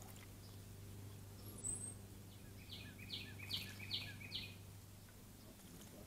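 A bird sings a run of five sharp, evenly spaced, downslurred notes, about two and a half a second, a little past halfway. Underneath is faint water splashing from a song sparrow bathing in a shallow bird bath.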